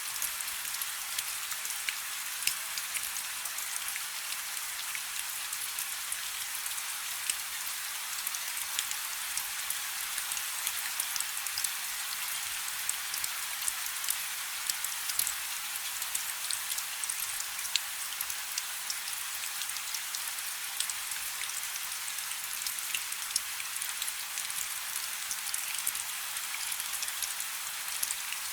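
Light rain falling steadily: an even hiss with many small, sharp drop ticks scattered through it.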